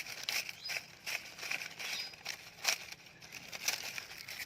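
Indian ringneck parrot making a string of short, scratchy chattering sounds, about one every half second to a second, between bouts of talking.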